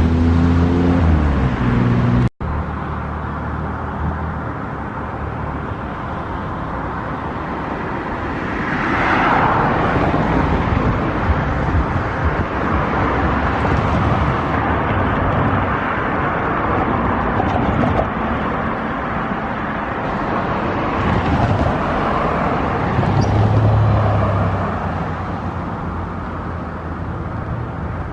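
Steady outdoor vehicle noise with a couple of louder swells as something passes, after an abrupt cut about two seconds in that ends a pitched sound.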